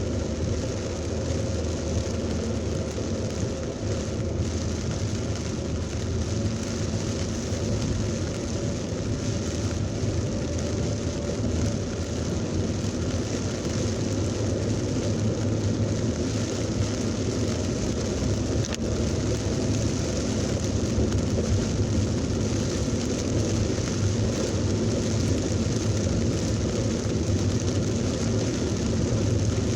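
Heavy rain pouring down steadily in a thunderstorm, with the low steady noise of vehicle traffic underneath.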